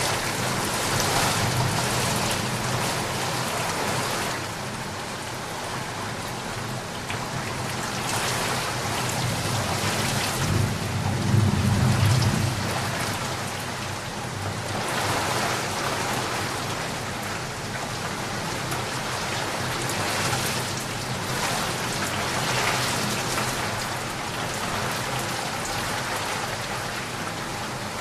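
Steady rain falling, with the hiss rising and easing in slow swells. About eleven seconds in, a low rumble swells up for a second or two, the loudest moment, likely distant thunder.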